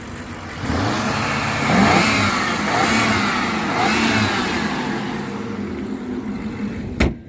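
BMW N63R 4.4-litre twin-turbo V8 idling, then revved in three quick blips that rise and fall back before it settles to idle again; a sharp click near the end. The engine runs smoothly with no knock or turbo wastegate rattle.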